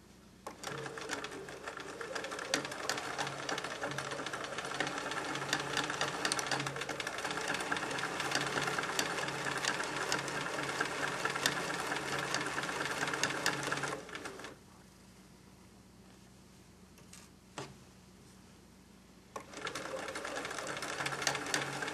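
Electric sewing machine stitching through layers of fleece and batting, running steadily for about thirteen seconds, then stopping. After a pause with a couple of faint clicks, it starts stitching again near the end.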